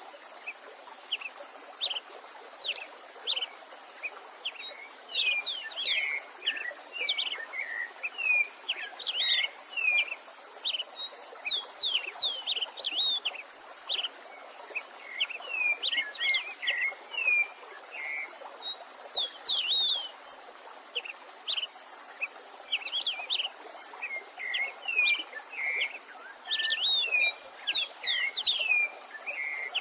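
Songbirds singing: a steady stream of short chirps and quick sweeping whistles, several notes a second, over a low, even hiss of running stream water.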